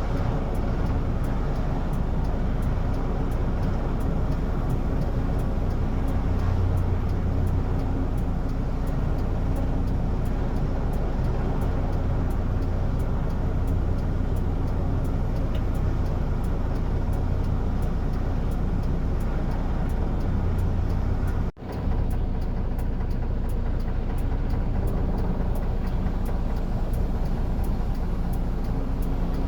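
Steady engine drone with a strong low hum, holding level with no rise or fall, broken by a brief dropout about two-thirds of the way through.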